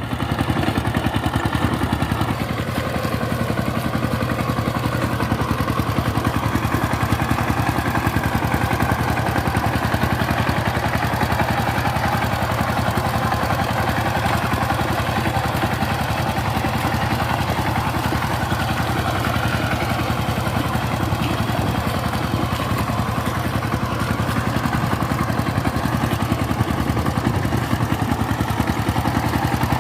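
Power tiller's diesel engine running steadily under way at raised speed, with an even, fast chugging pulse.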